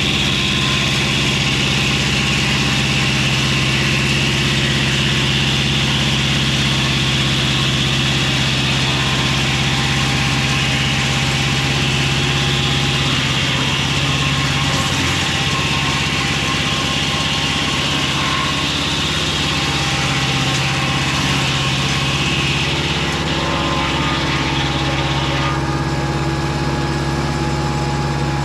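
Mobile Dimension circular sawmill's engine running steadily, with a higher whine over it that drops away near the end.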